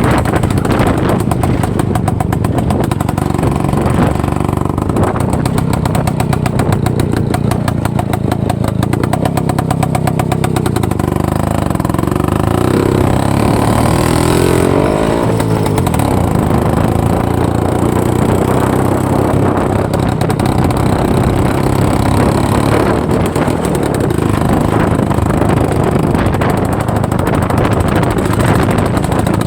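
IZh-49 motorcycle's single-cylinder two-stroke engine running steadily while riding, its pitch rising and falling a few times around the middle.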